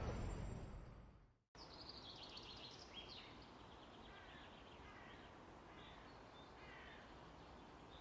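A low rumble fades out over the first second and a half and cuts off abruptly. Then comes faint outdoor ambience with small birds chirping several times, high and brief.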